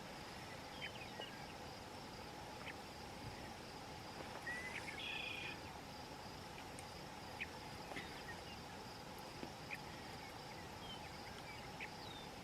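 Faint evening insect chorus: a steady high-pitched insect drone, with scattered short high chirps and a brief buzzy call about five seconds in.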